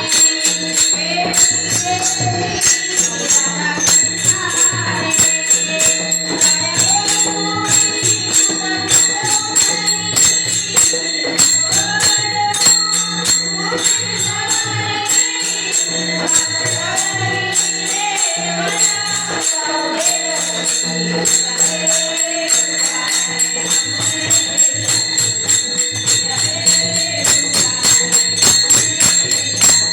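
Marathi devotional song to Krishna, with a woman's voice and other voices singing the melody over fast, continuous jingling percussion and a steady low beat.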